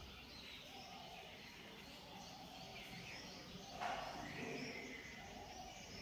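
Faint outdoor background with scattered short chirps of small birds, and one louder short sound about four seconds in.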